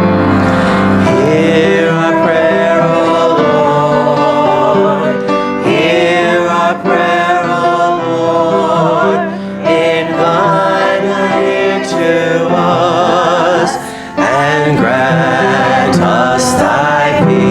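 Church music: a voice singing long, wavering notes with vibrato over piano accompaniment, with no words made out.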